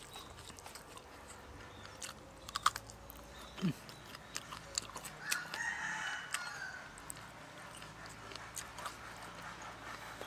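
Close chewing and wet mouth clicks of a person eating. A rooster crows once about five seconds in, a call of a second or so.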